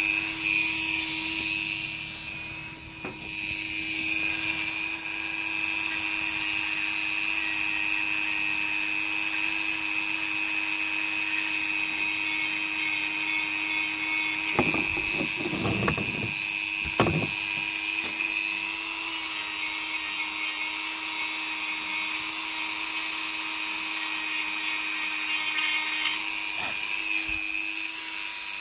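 A small high-speed power tool running steadily with a high whine. Its level dips briefly about three seconds in, and a few short knocks come around the middle.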